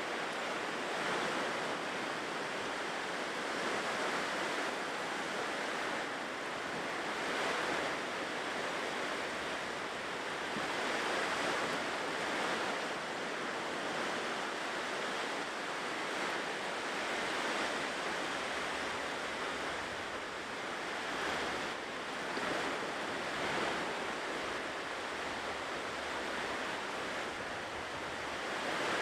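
Ocean waves breaking and washing on a shore: a continuous surf hiss that swells and eases every few seconds.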